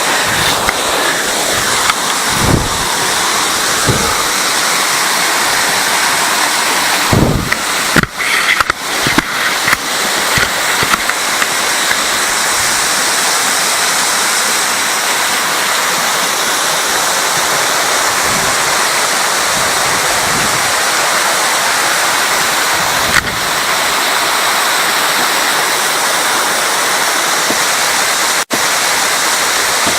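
Waterfall cascading into a fast river: a loud, steady rush of falling water. A few low thumps break in, most of them around seven to eleven seconds in.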